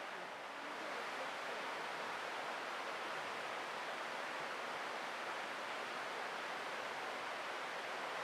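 Steady rushing of flowing stream water, an even noise without breaks.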